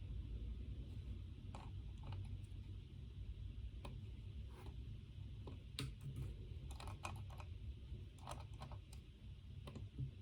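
Typing on a computer keyboard: scattered key clicks in uneven runs, coming thicker past the middle, over a steady low hum.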